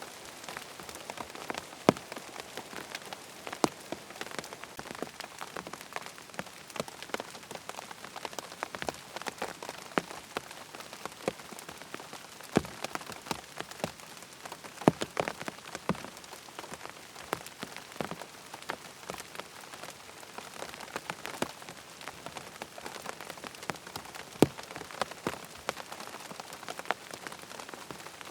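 Rain falling on a tent's fabric: a steady patter with many separate, irregular drop hits standing out.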